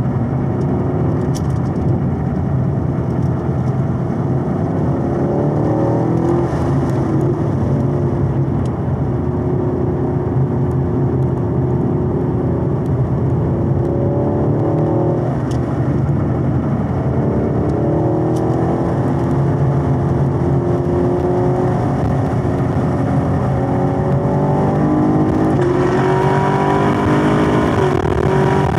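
2022 Camaro SS 1LE's 6.2-litre LT1 V8 working hard on a road course, heard from inside the cabin. Its pitch rises and falls through the corners, then climbs steadily under hard acceleration near the end.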